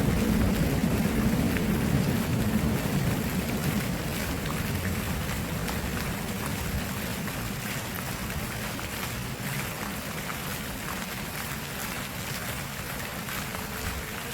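Flowing water, a steady rush with a fine spatter of drops. A low rumble under it fades away over the first few seconds.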